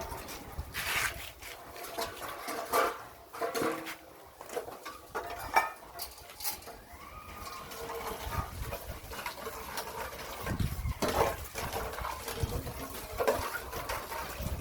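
Puppies feeding, with scattered clinks and knocks against a dish and a few short animal calls.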